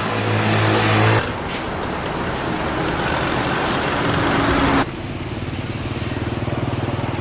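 Street traffic: motor vehicle engines running and passing, a steady engine hum under road noise. The sound changes abruptly about a second in and again near five seconds in.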